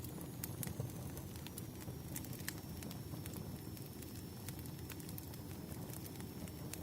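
Wood fire burning steadily, with a low rumble of flames and irregular sharp crackles and pops of the burning logs.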